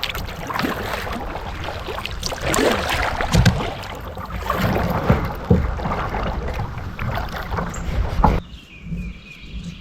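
Kayak paddling: paddle blades dipping and splashing in the water, over a low rumble of wind on the microphone. The sound drops away abruptly about a second before the end.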